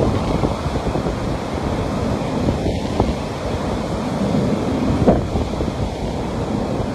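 Sea waves washing steadily onto a beach, with wind rumbling on the microphone.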